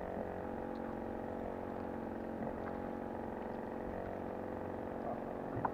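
Steady motor hum made of several even tones, with a couple of faint clicks near the end.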